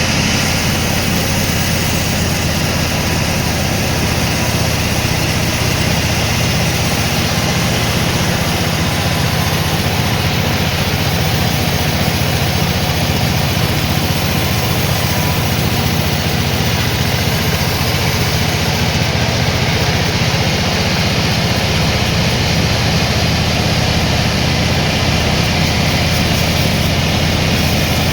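Sawmill machinery running steadily, a loud, even engine-like drone that does not change.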